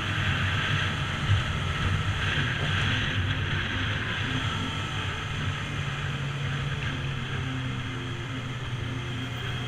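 Motorcycle engine running while riding, with wind and road rush on the microphone. The engine's pitch steps up a little about six seconds in.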